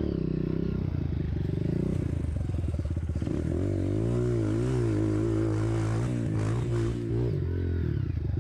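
Single-cylinder trail motorcycle engine running, its revs rising and falling repeatedly as the bike is ridden over rough ground, with some rattling.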